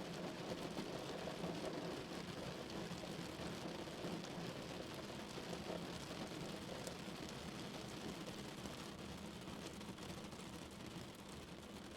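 Steady rain on a car's roof and windows, heard from inside the cabin as an even wash of patter with a low hum underneath, easing slightly near the end.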